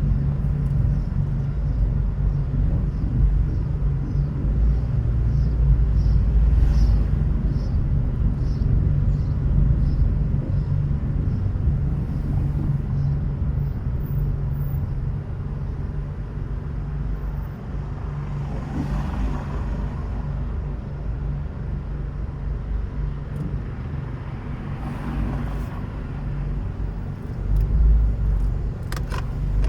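Car driving with a steady low road and engine rumble. A regular light ticking runs through the first dozen seconds, and the rumble swells twice later on.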